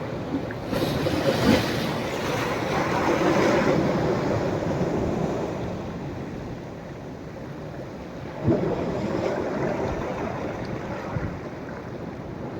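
Sea waves breaking and washing up a sandy beach on a rising tide. One wave swells and surges for a few seconds and then fades. A second wave breaks more sharply about eight and a half seconds in.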